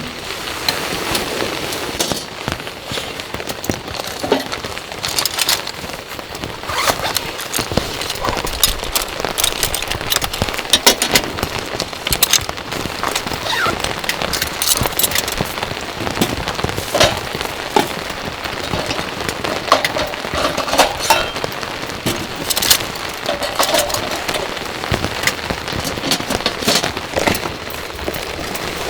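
Rain falling steadily, a dense hiss with many irregular sharp drop ticks close by.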